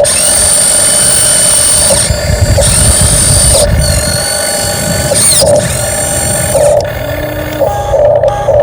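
The electric drive motor and gearbox of a radio-controlled dump truck whine in bursts as the throttle is worked. A high whine cuts in and out several times over a rough, low grinding rumble.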